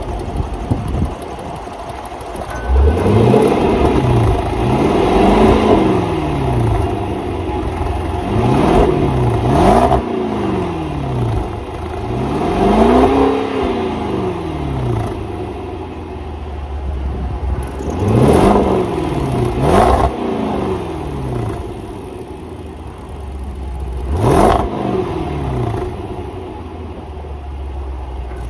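Range Rover Sport SVR's 5.0-litre supercharged V8 idling and being blipped about eight times, each rev rising quickly and falling back to idle, through the sports exhaust.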